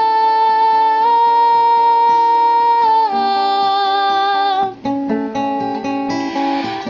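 Song with acoustic guitar: the singer holds the last note of the refrain for about three seconds, steps down to a lower held note, then the guitar plays alone for the last two seconds.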